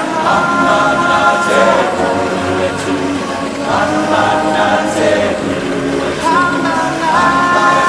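A group of voices singing together in long held notes, phrase after phrase.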